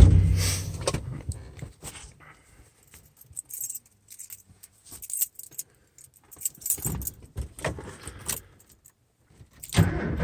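Keys jangling and clicking as the ignition key of a 1991 Ford F-150 is handled, with a sharp knock at the start. A louder sound begins just before the end as the truck starts to crank.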